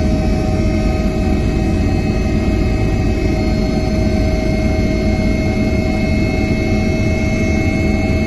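Helicopter's turbine engine and rotors running steadily: a constant high whine over a dense low rumble.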